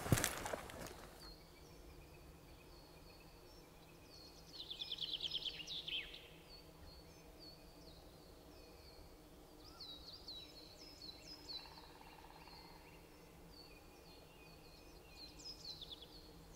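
Faint wild birdsong: repeated high chirps throughout, with a rapid trill about five seconds in and more bursts of song later.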